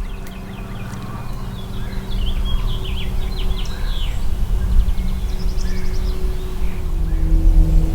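Small songbirds chirping in quick runs of short notes, over a low steady rumble that grows steadily louder.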